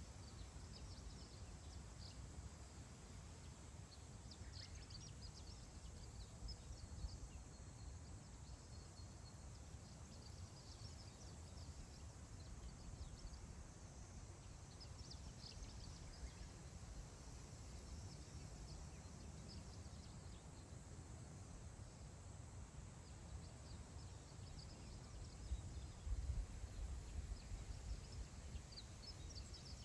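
Wind blowing across open grassland: a faint, steady low rumble that swells into stronger gusts near the end. Now and then come short high chirps of wild birds.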